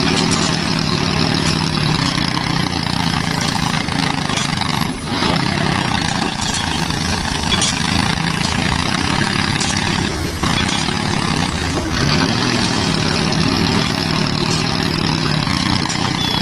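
Tractor engine running steadily at an even pitch, without revving up or down.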